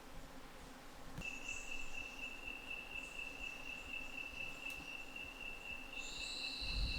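A steady, high-pitched insect call, one unbroken tone, starts about a second in; near the end a second, higher-pitched insect call joins it.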